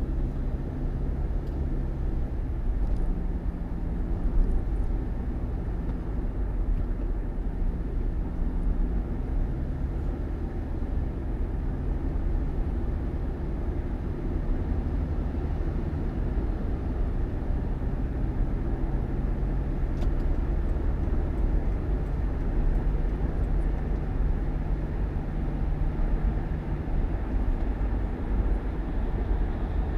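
Steady engine and road noise of a moving vehicle: a continuous low rumble with a low engine drone that shifts in pitch now and then.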